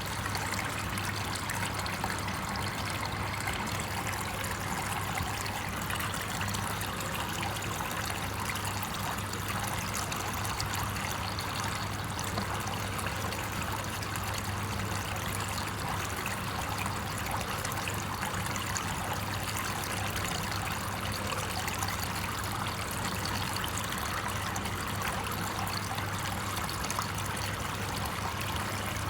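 Steady trickling, running water, like a small stream, continuing without a break.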